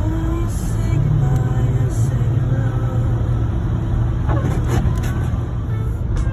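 Steady road and engine noise heard inside a vehicle's cabin while driving on a snowy highway: a constant low drone with tyre noise.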